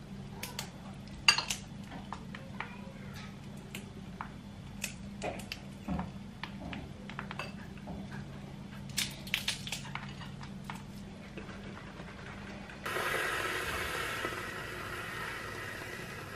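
Kitchen work sounds: dishes and utensils clinking and knocking now and then over a low hum. About 13 seconds in, a steady hiss starts.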